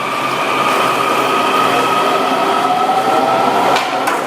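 Subway train running: a steady rumble and rush of noise with a high electric whine that shifts slowly in pitch.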